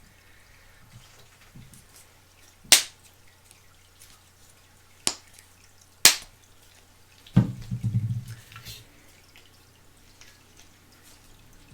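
Pez dispensers in their blister-card packaging being handled: three sharp clicks a couple of seconds apart, then a brief burst of knocking and rustling.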